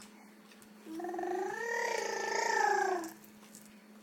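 An 11-month-old baby's drawn-out vocal sound: one long vowel about a second in, lasting about two seconds, its pitch rising and then falling.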